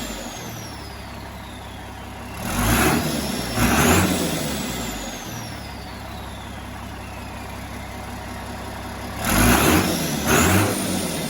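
Turbocharged Ford 2725E Dover six-cylinder diesel in a Fordson Major idling, with the throttle blipped twice in quick succession about two seconds in and twice more near the end. With each blip the turbo whistle rises, then slides slowly down in pitch as the turbo spins down.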